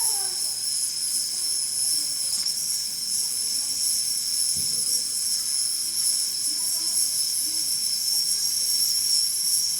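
Steady, high-pitched chorus of insects singing, unbroken throughout, with faint voices low beneath it.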